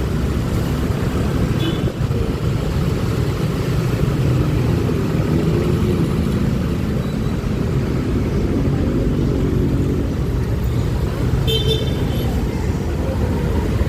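Steady wind and traffic rumble from riding a scooter through city traffic, with short horn toots about two seconds in and again near the end.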